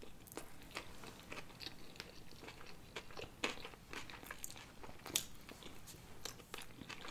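Close-miked chewing of sushi rolls by two people: irregular soft crunches and wet mouth clicks, with a sharper crunch about five seconds in.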